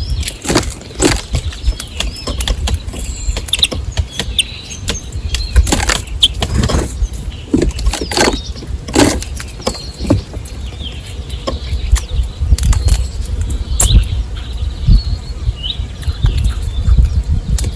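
Small birds at a feeding spot close to the microphone: irregular sharp taps and flutters, a few faint chirps, over a low rumble.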